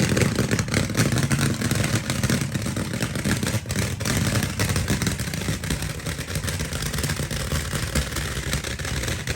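Pyroland Monster Kometen Tonne firework barrel firing its comets in a dense barrage. The shots come so fast (4480 in 50 seconds) that they run together into one steady, loud rattle.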